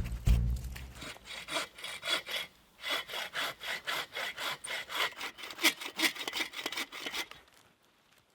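Hand saw cutting through a dead log, a steady rhythm of back-and-forth strokes, about three a second, that stops shortly before the end.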